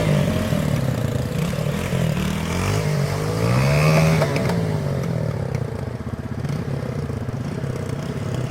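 Small off-road vehicle engine revving up and down, the throttle opened to a peak about four seconds in and then eased off, typical of a quad bike or dirt bike working through mud.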